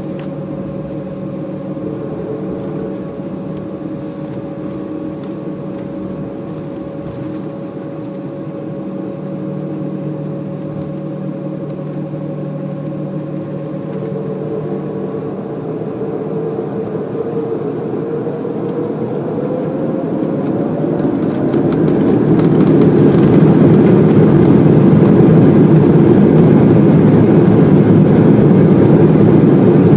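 Embraer E190's GE CF34-10E turbofan engines heard from inside the cabin: a steady whine at first, then from about halfway through a rising whine as the engines spool up. For the last third a much louder, steady rushing noise follows as takeoff thrust is set.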